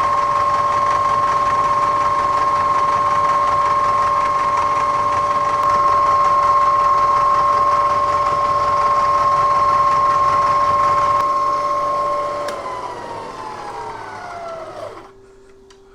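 Bridgeport milling machine running with a steady whine while an end mill takes a 25-thousandths pass on the block. About twelve seconds in the motor is switched off and the whine falls in pitch as the spindle spins down, leaving a faint hum.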